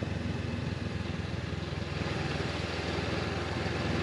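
Honda CB500X's parallel-twin engine running steadily, a low even pulsing hum under a steady hiss, getting a little louder near the end.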